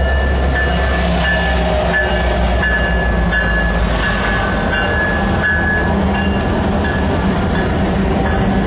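Freight train rolling past at speed: a loud, steady low rumble with a high ringing tone from the wheels that breaks up in a regular rhythm.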